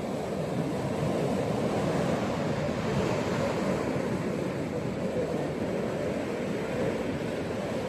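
Ocean waves washing onto a beach in a steady low rush, swelling slightly a couple of seconds in.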